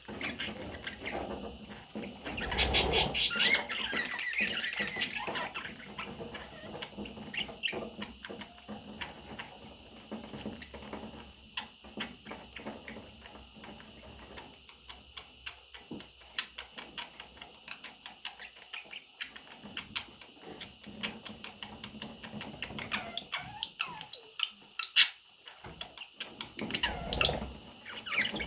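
Baby budgies moving and scratching about, with a steady patter of small clicks and scrapes and scattered faint chirps. A loud flurry of rapid clicking and scrabbling comes about three seconds in, and a single sharp, high chirp near the end.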